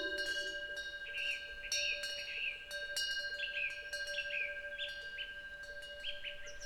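A bronze Korean temple wind bell (pungyeong) is struck over and over by its clapper, with clear ringing tones that hang on between strikes. A small bird chirps repeatedly alongside it.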